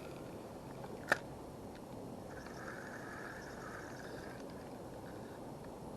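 Steady outdoor wind noise, with one sharp click about a second in and a faint high buzz lasting about two seconds in the middle.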